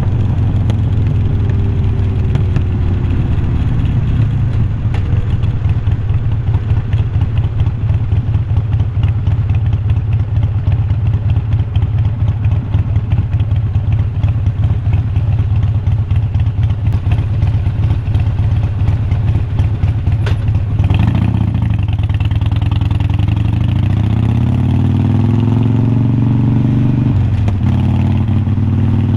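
Harley-Davidson Iron 1200's air-cooled 1200 cc V-twin running through unbranded glass-pack-style slip-on mufflers while riding, with a rapid pulsing exhaust note. The pitch falls in the first few seconds, holds through the middle, then rises as the bike accelerates from about two-thirds of the way in, dipping briefly near the end.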